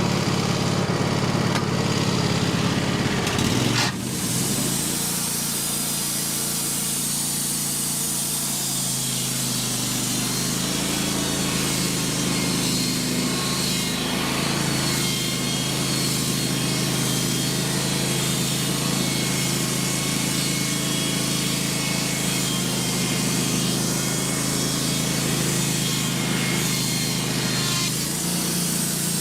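Wood-Mizer LT15 band sawmill's engine running. About four seconds in its note drops as the band blade works through a larch log, with a steady high hiss of cutting that holds until near the end.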